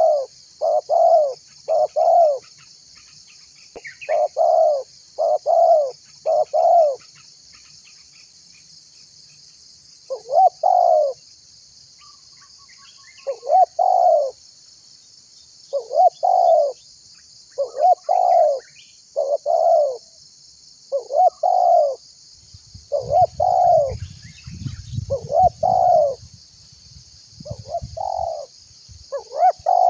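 Spotted dove (tekukur) cooing over and over in runs of short coos, with pauses of a few seconds between some runs and a steadier sequence in the second half. A steady high-pitched hiss lies underneath, and a low rumble comes and goes in the latter part.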